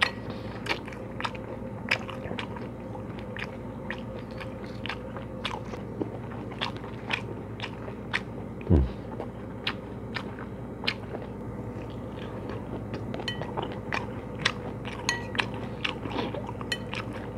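Close-up chewing of a mouthful of rice vermicelli, roast pork and herbs: many small wet mouth clicks, with one low thump about nine seconds in, over a steady low hum.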